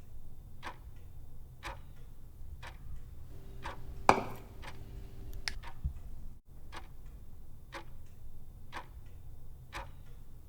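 A clock ticking about once a second, used as a sound effect for the 24 hours of marinating going by. There is one louder click about four seconds in, over a low steady hum.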